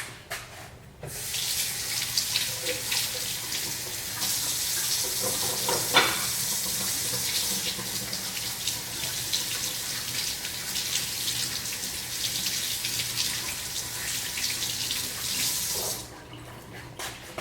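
Kitchen sink tap running while hands are washed under it, with one sharp knock about six seconds in; the water stops abruptly near the end.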